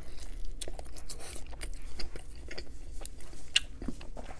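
A man chewing a mouthful of pepperoni and cheese pizza close to the microphone, with scattered wet mouth clicks and smacks, one sharper click near the end.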